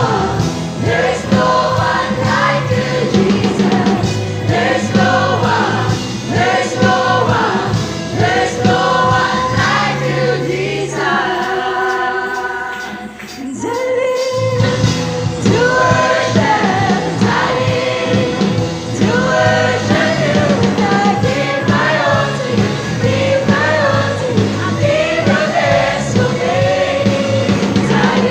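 Youth choir singing a gospel song over instrumental accompaniment. About halfway through the music thins out briefly on a held chord, then the choir and band come back in full.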